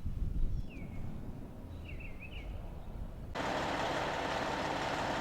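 A few short bird chirps over a low rumble, then a loud, steady hiss that starts suddenly a little over three seconds in.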